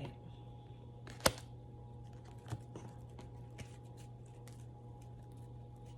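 Tarot cards being handled and shuffled: scattered light clicks and taps, with one sharp click about a second in. A low steady hum runs beneath.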